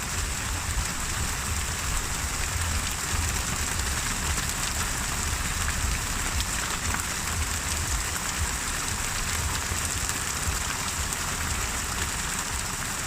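Steady rain falling, a dense patter of drops over a low rumble, with sea waves lapping.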